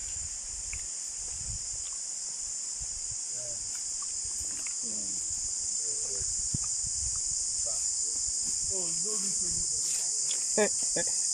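Steady, high-pitched chorus of forest insects, with faint voices in the background and a few short, louder calls near the end.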